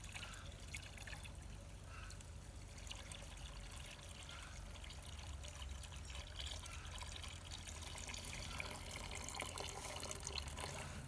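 Cow drinking water from a bucket: faint trickling and sloshing of water, with small sounds recurring about every two seconds.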